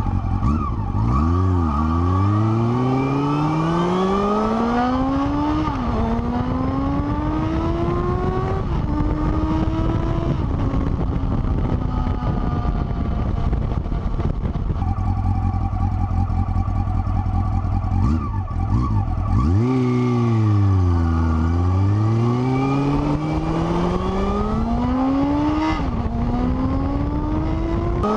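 Honda CB400SF inline-four motorcycle engine through an aftermarket Moriwaki muffler, accelerating hard through the gears. Its pitch climbs and drops at each upshift, falls away about twenty seconds in, then climbs through the gears again.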